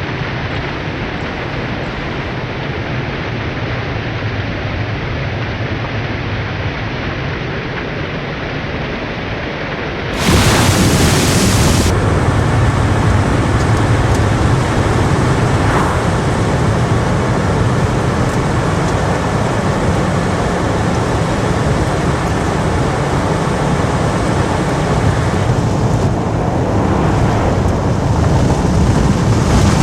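Steady noise of a vehicle assembly plant floor, with no distinct tones or rhythm; it jumps louder and fuller about ten seconds in.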